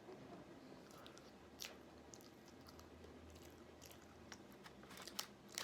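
Faint chewing and mouth sounds of someone eating, with a few soft wet clicks.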